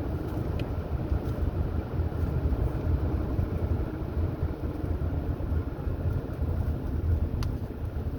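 Car driving along a highway: a steady low rumble of engine and tyres on the road, with two faint ticks, one about half a second in and one near the end.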